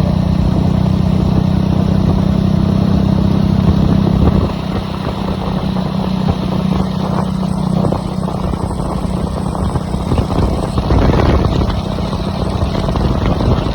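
Jawa Perak motorcycle's single-cylinder engine running through a loud exhaust, a steady low rumble that drops in level about four seconds in, then goes on unevenly with a brief swell near eleven seconds.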